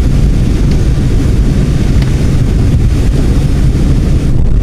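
Steady low rumble of a car on the move, its road and engine noise heard from inside the cabin.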